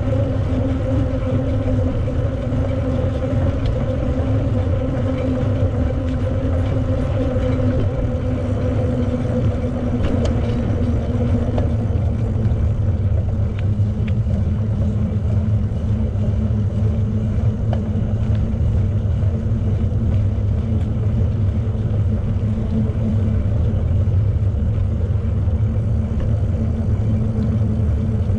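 Steady low rumble of a bicycle being ridden: wind and tyre noise, with a faint hum.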